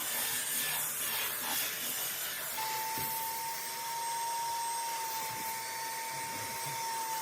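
Bissell Spot Clean Professional extractor running, its suction motor pulling dirty water out of cloth seat upholstery with a steady hiss. A thin steady whistle joins about two and a half seconds in.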